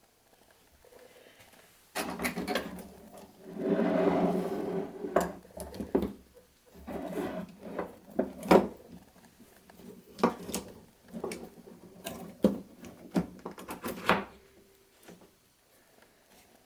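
Wooden parts and clamps being handled during a glue-up: a run of sharp clicks and knocks over a steady low hum that starts about two seconds in and stops near the end.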